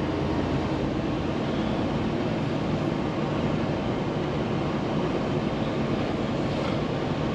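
Semi-truck's diesel engine running with cab and road noise, a steady drone heard from inside the cab.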